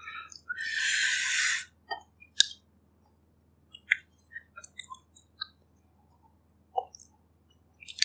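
Close-miked eating of bak kut teh, the pork-rib herbal broth: a hissing slurp of soup for about a second near the start, a single sharp click a couple of seconds in, then soft, scattered wet chewing clicks.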